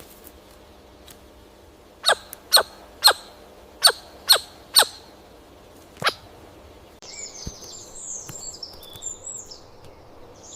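Bird calls: seven sharp, steeply falling calls in a quick, uneven series, then a fainter high twittering song.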